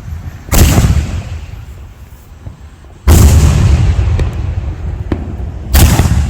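Mafia Boss 9-shot consumer firework cake firing: three loud booms about two and a half seconds apart, each trailing off in a rumble.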